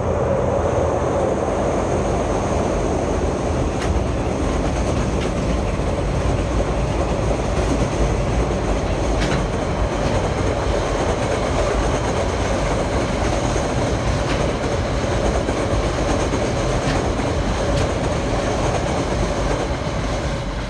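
Train running past at close range: a steady rumble of wheels on rail with a constant hum, and a few sharp clicks.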